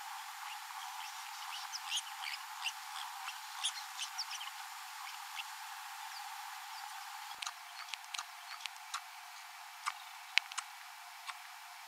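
Faint high chirps of small birds and scattered sharp clicks over a steady hiss; the clicks grow sharper and sparser in the second half, the loudest about ten seconds in.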